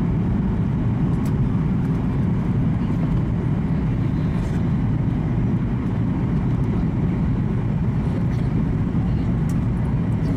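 Steady low rumble inside the cabin of a Boeing 737 MAX 8 in flight: engine and airflow noise from its CFM LEAP-1B engines, even throughout, with a few faint ticks.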